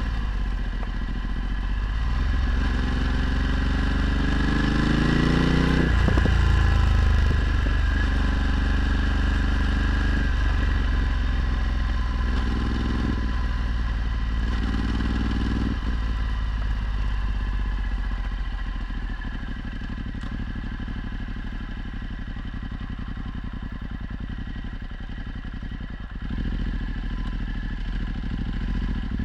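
Ducati Multistrada 1260's V-twin engine through a Termignoni exhaust, revving up and dropping back several times as it is ridden through the gears. For the last ten seconds or so it runs at a steadier, lower pitch.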